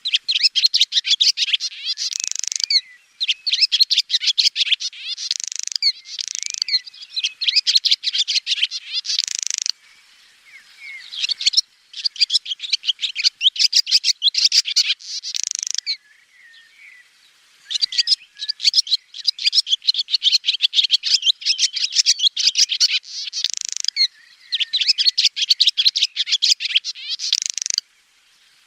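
Swallows twittering in long runs of rapid, high chirps, with short breaks about ten and sixteen seconds in.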